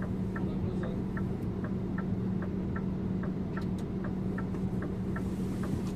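Scania InterLink bus's indicator ticking steadily, about two and a half clicks a second, over the steady low hum of the bus.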